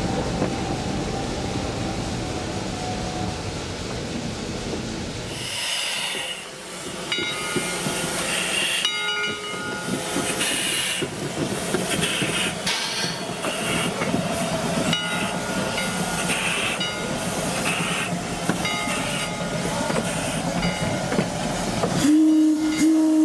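A passing train rumbles for the first five seconds. After an abrupt change, its wheels roll with clicks and short high squeals. Near the end the train sounds one long, steady blast of its horn or whistle.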